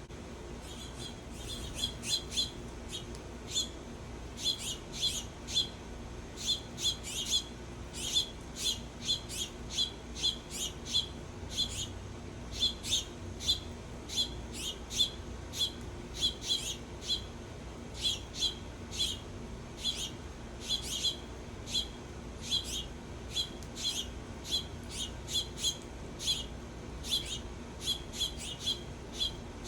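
A small songbird calling with short, sharp chip notes over and over, about one to two a second, starting about a second in.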